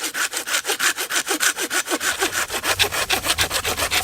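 A hand saw cutting through wood with rapid, even back-and-forth strokes.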